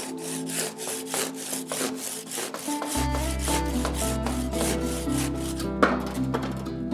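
Handsaw cutting through the stone of a wall in steady back-and-forth strokes, about three a second, that stop shortly before the end, over background music.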